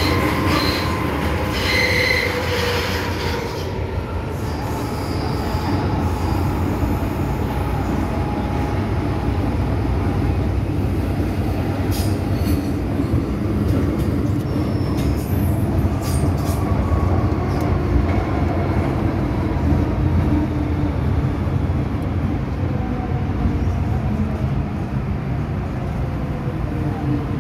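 MTR M-Train electric multiple unit running on the Island Line: a steady rumble of wheels and running gear, with high wheel squeals in the first few seconds and again about halfway through, and a motor whine falling in pitch near the end.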